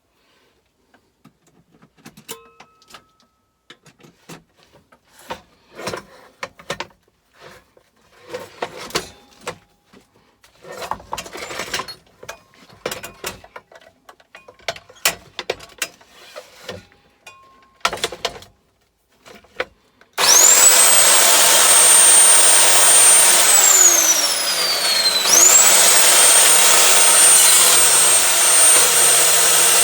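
Scattered clicks and knocks of handling, then about twenty seconds in an electric chop saw's motor starts and whines quickly up to speed. A few seconds later the whine drops sharply as the blade slows when its teeth meet the aluminium, then it spins back up and runs steadily: the blade stalls under load, a fault inside the saw.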